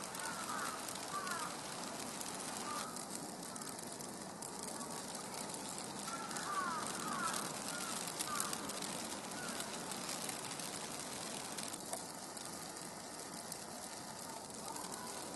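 Steady outdoor hiss of a snowstorm with fine crackling ticks throughout. Short high chirping calls come in quick clusters at the start and again about six to seven seconds in.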